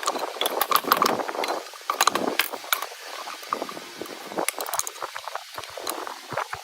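Workshop handling of metal parts: many irregular light clinks and clicks over an uneven rushing, scraping noise.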